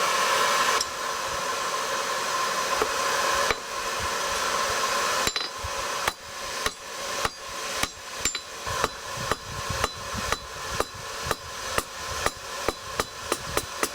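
A steady rushing noise for about five seconds, then a forging hammer striking steel on an anvil about two blows a second. Each blow rings, and the pace quickens slightly near the end.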